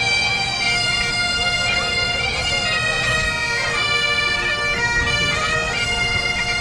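Bagpipes playing a tune: held notes stepping from pitch to pitch over a steady drone, with a low rumbling noise underneath.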